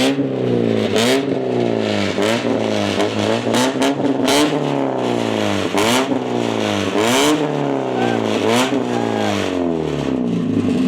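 Straight-piped Mazda Miata four-cylinder engine blipped hard about ten times in a row, the pitch shooting up and falling back each time, through an oversized exhaust tip, with sharp cracks at several of the rev peaks. Too loud.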